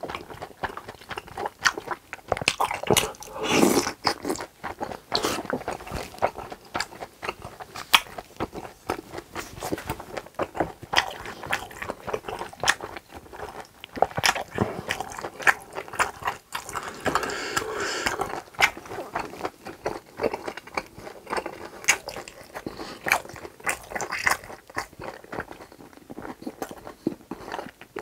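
Close-miked chewing of pork intestines and rice cakes in spicy sauce: wet, sticky smacking mouth sounds with many small irregular clicks.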